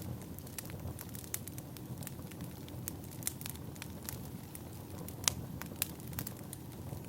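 Wood fire crackling: a steady low rumble of burning logs with irregular sharp pops and snaps, one louder pop about five seconds in.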